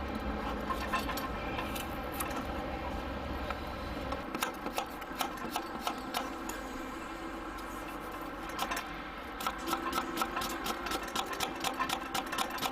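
Rapid, irregular clicking and tapping of cooking utensils, coming thickest in the second half.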